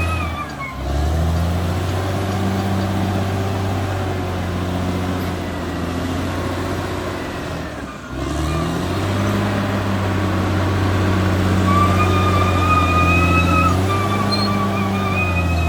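Caterpillar D6R XL bulldozer's diesel engine running under load, its pitch sagging and recovering twice, with a high whine joining near the end.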